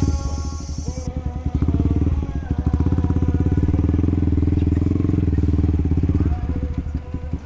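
Yamaha XSR155's single-cylinder engine running under way. It pulls harder from about two seconds in, holds steady, and eases off about a second before the end.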